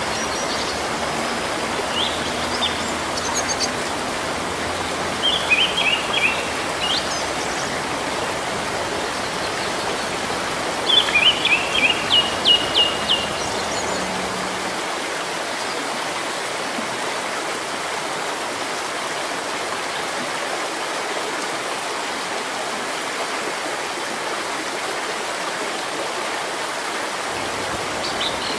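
Steady hiss of rain falling on foliage. A bird calls over it in short runs of chirps, the loudest run about eleven to thirteen seconds in.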